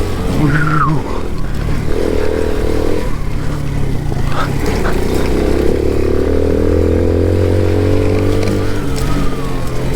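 Alpha moped's small single-cylinder four-stroke engine running steadily under way, its note dipping briefly about three seconds in.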